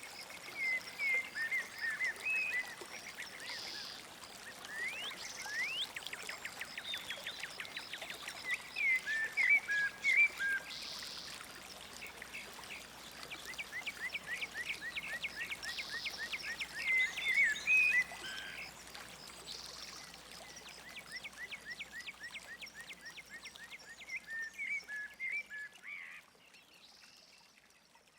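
Several songbirds singing, with short chirps and whistled notes mixed with fast, even trills. The song fades out near the end.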